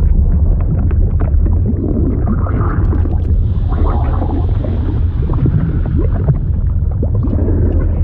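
Fluid sound effect: a steady deep rumble with liquid gurgling and bubbling over it, full of short, scattered blips that slide up and down in pitch.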